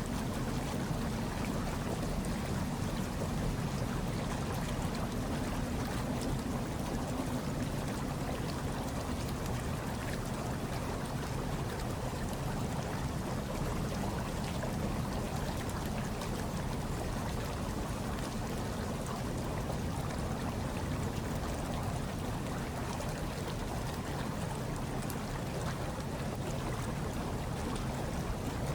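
Hot tub water bubbling and churning steadily, without a break, with most of its weight in a low, even rumble.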